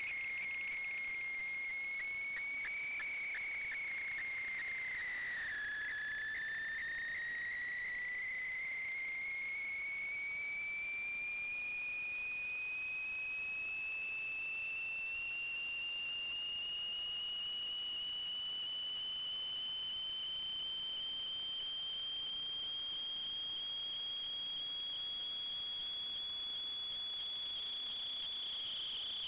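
A continuous high-pitched whine that dips slightly in pitch about five seconds in, then slowly rises for the rest of the time.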